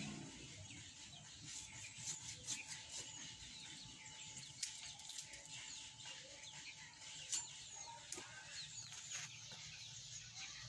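Chickens clucking faintly, with scattered short chirps and a few sharp clicks.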